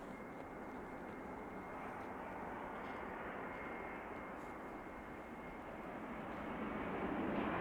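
Jet airliner engines heard at a distance: a steady rush with a faint thin high whine, growing louder over the last second or two.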